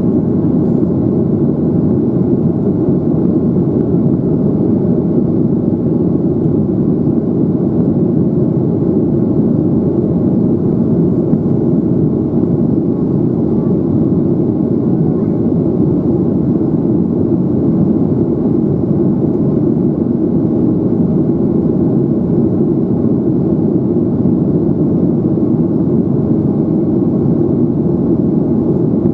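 Steady, loud rumble of a Boeing 737-800's CFM56 jet engines and airflow heard from inside the passenger cabin, with no change in level.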